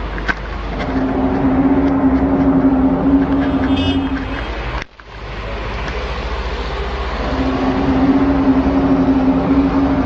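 A low, steady, trumpet-like drone held for about three and a half seconds over a constant rumble. After a sudden break it sounds again for about three seconds: one of the unexplained 'sky trumpet' sounds.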